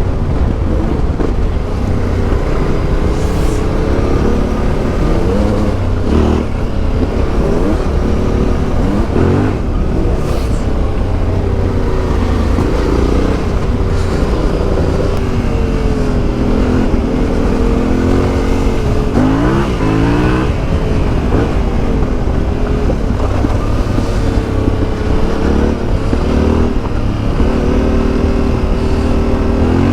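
Motorcycle engine on the move, revving up and dropping back again and again as it changes gear, over a steady low rumble.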